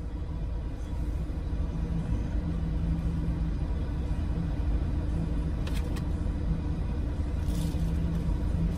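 Ford Everest's engine idling steadily, heard from inside the cabin as a low rumble. Two short clicks come about six seconds in.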